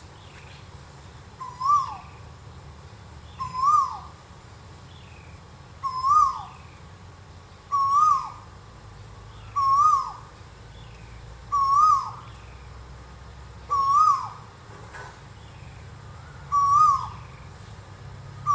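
Collared scops owl calling: a short note that rises and then drops, repeated about every two seconds.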